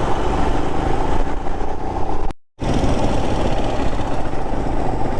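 Motorcycle running on the road: steady engine and road noise. The sound drops out for a moment about halfway through.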